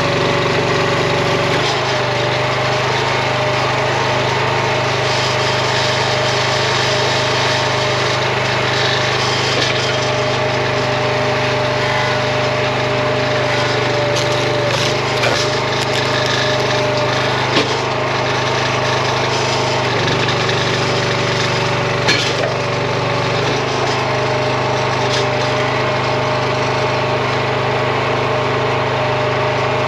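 Small gas engine of a RuggedMade hydraulic log splitter running steadily, its tone shifting briefly now and then, with a couple of sharp knocks about two-thirds of the way through.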